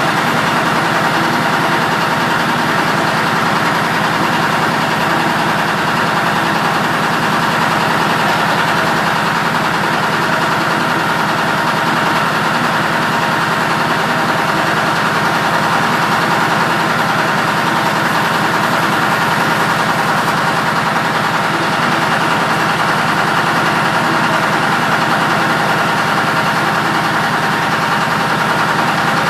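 Heavy engine idling steadily at an even, unchanging speed.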